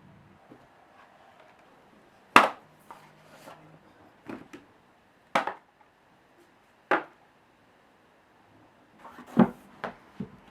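A few sharp, separate knocks and taps of kitchen things being handled and set down, irregularly spaced, the loudest about two seconds in and a small cluster near the end.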